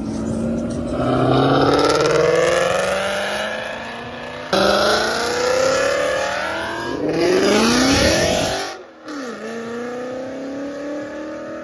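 Car engines accelerating hard, their pitch climbing steeply, in short clips that cut off abruptly about four and a half seconds in and again near nine seconds.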